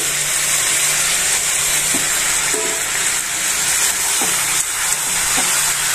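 Fried mushroom pieces, onion and capsicum sizzling in sauce in a wok on a gas burner, stirred with a metal spatula: a steady frying hiss with a few faint scrapes and knocks of the spatula.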